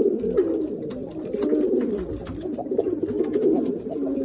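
Several domestic pigeons cooing at once, their calls overlapping in a continuous chorus, with a few light clicks among them.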